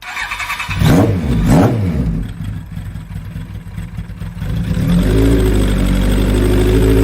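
A vehicle engine running: two quick swoops up and down in pitch about a second in, then settling into a steady idle from about five seconds in.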